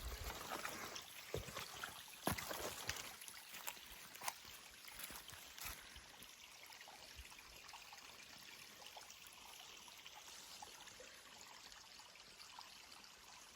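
Faint flowing water of a rainforest creek, a steady trickling hiss. A few scattered clicks and scuffs break in during the first half, then fade out.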